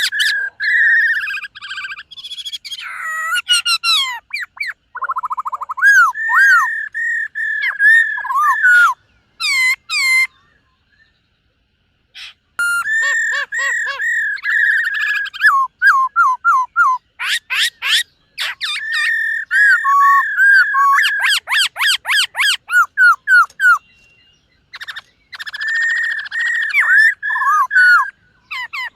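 Black-throated laughingthrush singing loud, varied whistled phrases: held whistles, fast runs of repeated notes and trills, broken by a pause of a few seconds about a third of the way in and a shorter one near the end.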